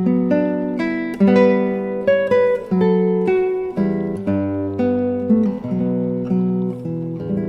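Acoustic classical guitar music: a run of plucked notes, several a second, each ringing and fading.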